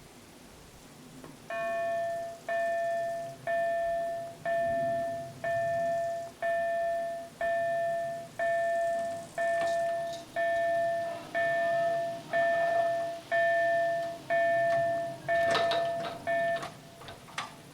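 Level-crossing warning bell ringing about once a second, each stroke a bright decaying ding. It warns that a train is approaching and the barriers are lowering. It stops abruptly about sixteen and a half seconds in, with a few sharp clicks around it.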